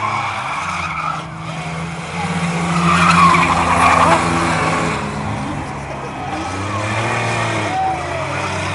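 Several race trucks' engines running hard on the track, their pitch rising and falling as they go by. Tyres squeal and skid, loudest around three to four seconds in.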